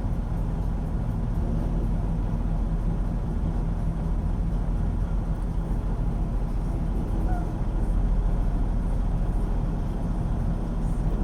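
Steady low rumble of a semi-truck's diesel engine and road noise, heard inside the truck's cab.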